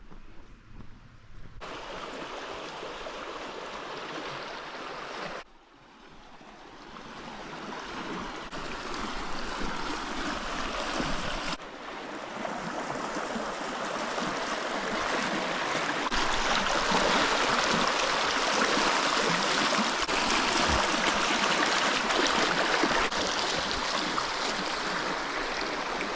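Rushing water of a stream running high, heard as a steady noise that is cut into several pieces: it starts about a second and a half in and dips briefly around five seconds. It then grows louder and stays at its strongest through the second half.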